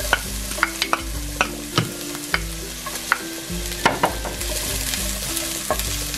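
Chopped onion and garlic sizzling in hot oil in a stainless steel pan, a steady hiss broken by scattered sharp crackles.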